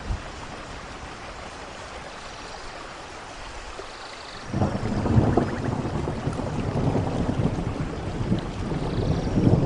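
Steady rainforest rain, with a long roll of thunder that breaks in suddenly about halfway and keeps rumbling, growing louder near the end.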